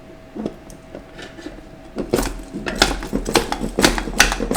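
Metal parts inside a 4L60E automatic transmission clinking and clattering against each other as they are worked loose during teardown. A few light clicks come first, then a quick, irregular run of clanks from about two seconds in.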